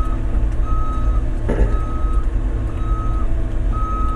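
Large excavator's travel alarm beeping about once a second, a sign the tracks are moving, over the steady drone of its diesel engine.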